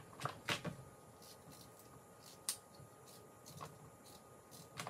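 Faint kitchen handling: a few scattered light clicks and knocks, about five in all, with quiet stretches between them.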